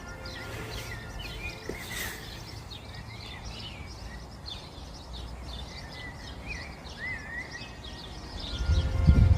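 Small birds chirping: a steady run of many short, quick calls with a few curling whistled notes. About a second before the end, a loud low rumble of wind or handling on the microphone comes in.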